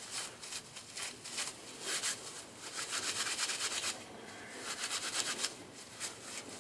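Dry basswood inner bark being torn and rubbed apart by hand into fine fibres for a tinder bundle: a run of quick, scratchy rustling strokes.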